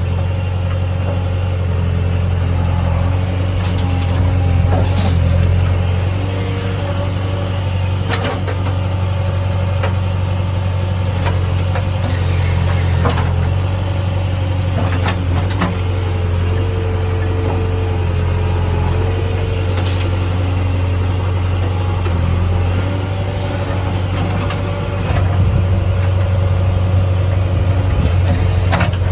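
Heavy diesel engine of earth-moving machinery running steadily, with a few short knocks and clanks scattered through it and the engine note rising briefly twice.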